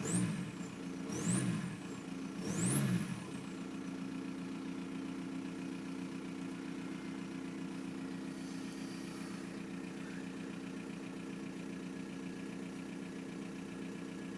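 1999 VW Golf Mk4 TDI's 1.9-litre AHF turbodiesel blipped three times, each rev bringing a turbo whistle that rises sharply and then whines slowly back down. It then settles into a steady idle, which the owner calls lumpy and rough.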